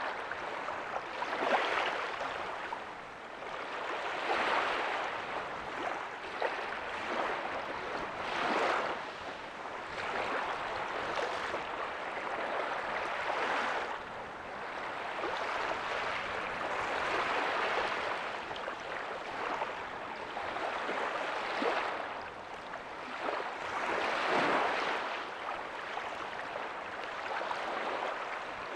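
Ocean waves breaking softly on a beach: a hiss of surf that swells and fades every few seconds, with no sharp crashes.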